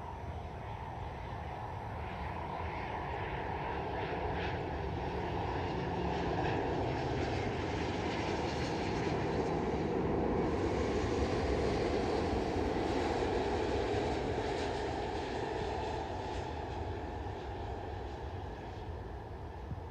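Boeing 777 airliner's twin GE90 turbofan engines as the jet passes by: steady engine noise that grows to its loudest about halfway through, then fades.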